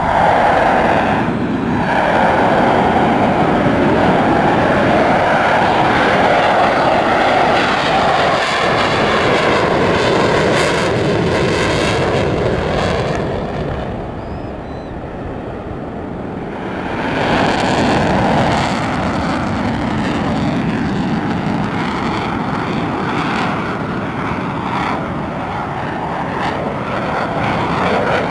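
Eurofighter Typhoon's twin EJ200 turbofans, loud jet noise from the aircraft in flight. The noise eases for a few seconds about halfway through, then builds again as the jet comes round.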